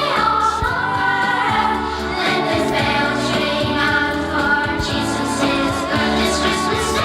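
Music with a choir singing over instrumental accompaniment, at a steady level.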